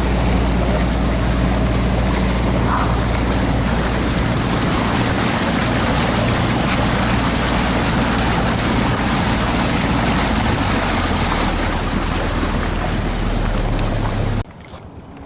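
A small boat's engine running steadily under way, its note shifting a couple of times, with heavy wind noise and water rush over it. The sound drops away abruptly near the end.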